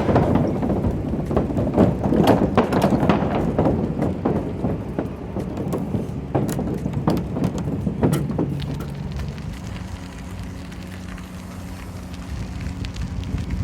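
Bicycle riding along an unpaved gravel towpath: tyres crunching with rattles and knocks. About eight or nine seconds in the crackling eases into a steadier rumble.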